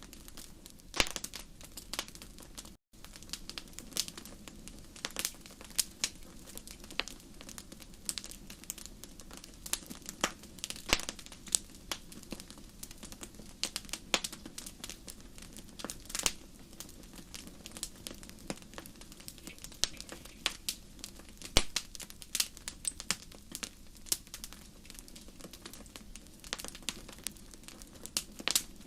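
Wood fire crackling in a fireplace: irregular sharp pops and snaps, sometimes several close together, over a steady low rush of flame. The sound cuts out for an instant about three seconds in.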